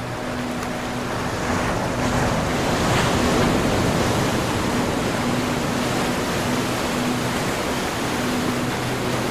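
Ocean waves breaking and washing in a continuous surf, one wave swelling up about two seconds in and spreading out. A faint low steady tone runs underneath.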